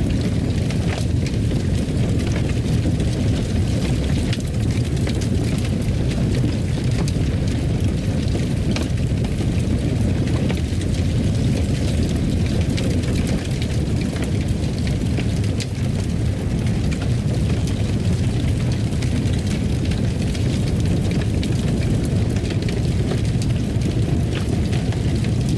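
Fire burning in a fireplace: a steady low roar with frequent small crackles and pops.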